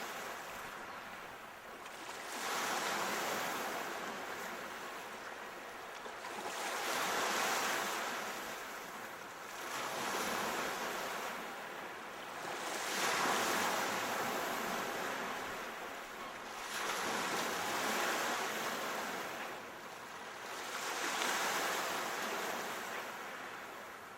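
Ocean waves surging and washing ashore in slow swells, five of them, about one every four to five seconds.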